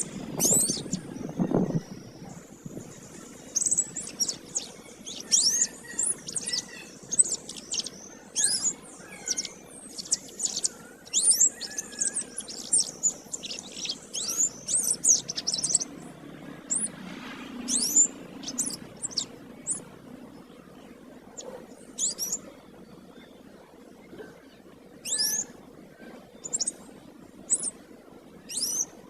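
Canary singing: runs of rapid high chirps and sweeping trills, dense for the first half or so, then coming in shorter spurts with gaps between them.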